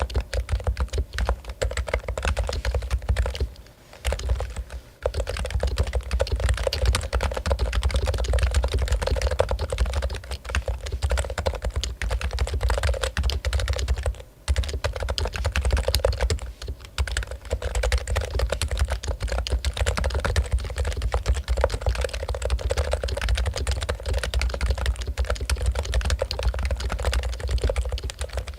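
Fast, continuous typing on a Topre Realforce keyboard with electro-capacitive rubber-dome switches, the keystrokes running together with a few short pauses.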